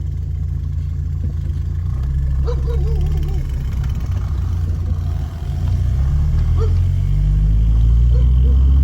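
Car engine and road rumble heard from inside the cabin while driving; about halfway through, the engine note rises and gets louder as the car accelerates.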